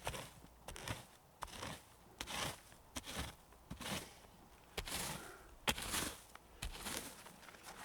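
Footsteps crunching through dry forest floor at a walking pace, with a few sharp snaps of twigs underfoot.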